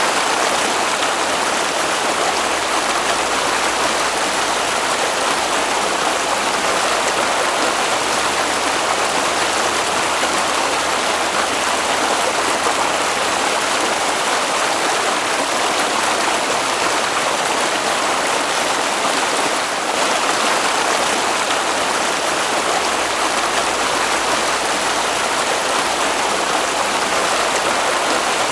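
Flowing water in a stream: a steady, even rush of running water.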